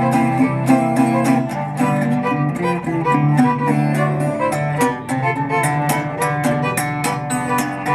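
Live acoustic string-band music with no singing: a fiddle playing held melody notes over steady plucked guitar strokes.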